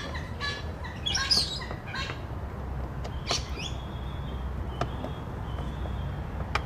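Birds chirping and whistling, with a burst of chirps about a second in and thin held whistles later on. A few sharp clicks and a low rumble run underneath.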